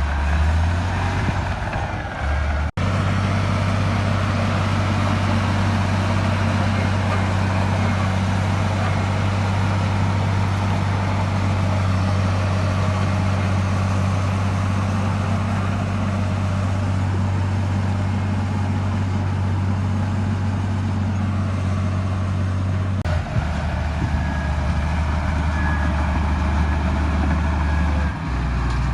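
Diesel engine of heavy earthmoving machinery running steadily at a constant low pitch. It cuts out for an instant about three seconds in, and its pitch shifts twice near the end.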